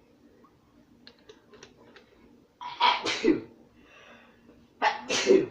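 A man sneezing twice, once about halfway through and again near the end, each a short, loud explosive burst.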